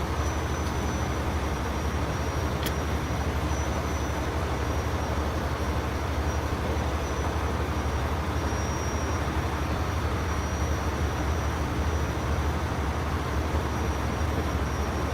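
Steady low rumble of a heavy engine running, with an even wash of noise over it and a single sharp click a little under three seconds in.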